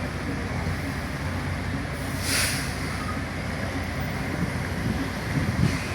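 Steady low rumble of heavy engines, with a short hiss about two seconds in and a few low knocks near the end.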